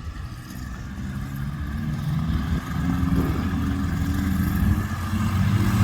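A closed-cockpit ultralight training aircraft's propeller engine running at a steady pitch, growing gradually louder as the aircraft comes closer.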